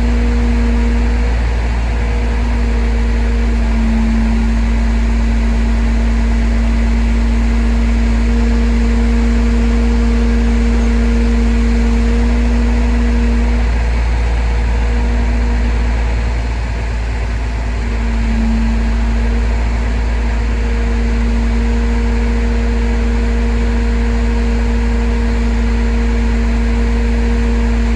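Crane truck's engine running with a deep, steady rumble, over which a steady whine sounds, breaking off and returning several times.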